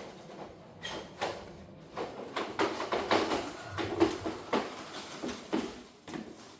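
Irregular knocks and clatter of objects being handled and moved about.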